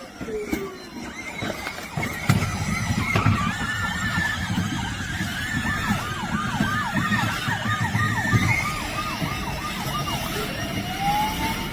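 Electronic toy police siren of a kids' ride-on police car, first a quick repeated up-and-down yelp and then one slower rise and fall near the end, over a low rumbling noise.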